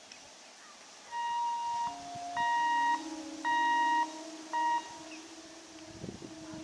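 Electric local train's horn sounding four blasts: two longer, one medium and a short last one. A lower steady hum runs underneath, and faint train rumble follows near the end.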